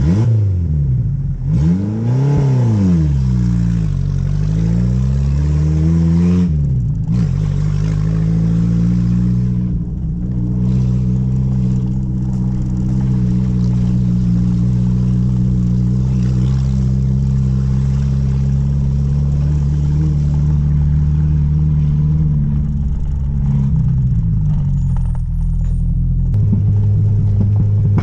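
Dacia car engine running through an FI Exhaust system, revving up and down twice, then holding steady revs for a long stretch and dropping off briefly near the end.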